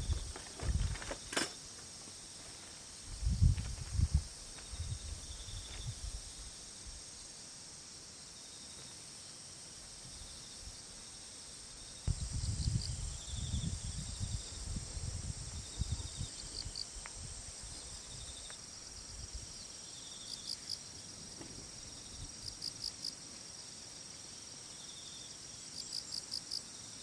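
Insects, crickets among them, trilling steadily at a high pitch with short repeated chirps. Low rumbling bursts come and go a few seconds in and again from about halfway, with a single sharp click near the start.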